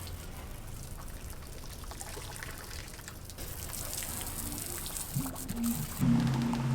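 Water pouring and trickling from a low-pressure hose as the boat is washed down. Music comes in near the end.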